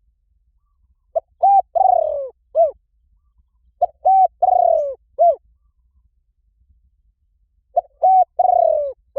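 Spotted dove cooing in three phrases about three seconds apart. Each phrase is two short coos, a long falling coo and a short final coo.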